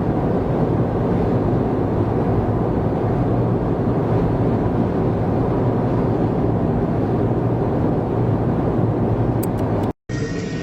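Steady road and engine noise heard inside a car cruising on an expressway. The noise cuts off abruptly near the end.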